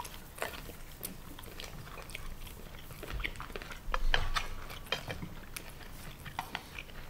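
Close-up eating sounds: chewing and mouth smacks with scattered small clicks of chopsticks picking at food, a little louder about four seconds in.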